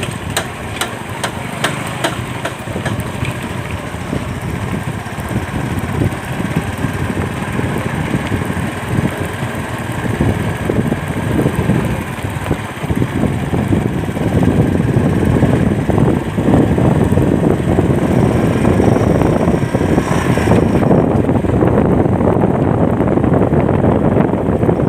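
Motorcycle engine running while being ridden, with wind rushing over the microphone; both grow louder a little past halfway.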